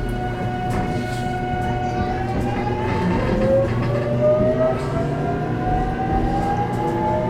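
JR Kyushu 813 series electric train's VVVF inverter traction motors whining over the running noise. Several tones rise steadily in pitch from about two seconds in as the train picks up speed.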